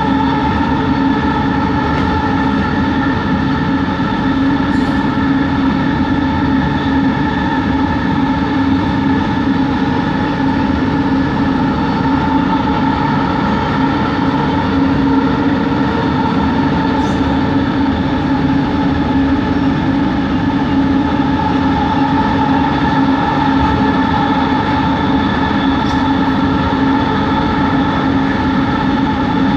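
Bombardier Innovia ART 200 train running at a steady speed. Several steady, unchanging whining tones from its linear induction motors, the weird motor noise, sit over a dense, even rumble.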